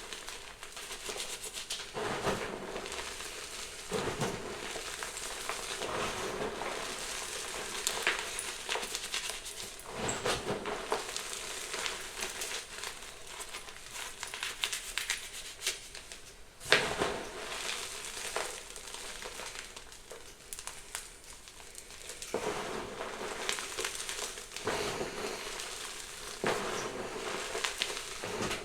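Blocks of gym chalk being crushed and crumbled by hand: irregular dry crunches and crackles, with one sharp snap about 17 seconds in.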